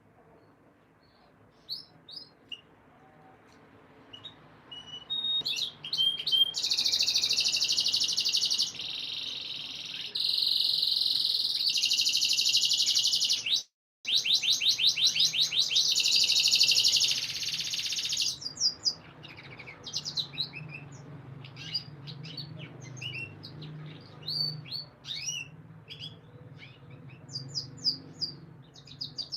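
Male domestic canary singing. After a few chirps it breaks into a long, loud song of sustained rolls and rapid trills about five seconds in, cut off for an instant near the middle, then trails off into scattered short chirps and calls.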